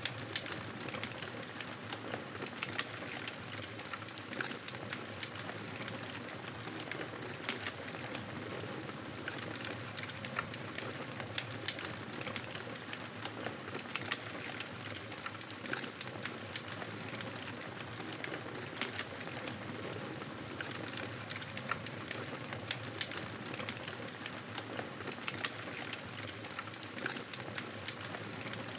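Fire crackling in a fireplace: a steady hiss with many irregular small pops and snaps.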